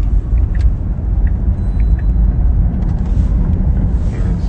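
Steady low road and tyre rumble inside the cabin of a Tesla electric car driving through a turn and merge, with no engine sound.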